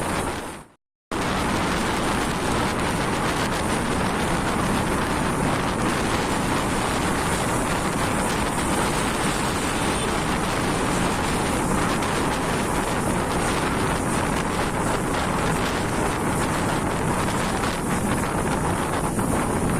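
Steady rush of wind over the microphone of a moving truck, with road and engine noise underneath. The sound cuts out briefly about a second in, then carries on unchanged.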